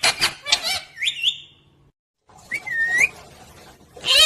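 Pet parrot giving a quick series of sharp whistles and squawks with steeply rising pitch, a brief silence, then a single dipping, rising whistle, and another loud call near the end.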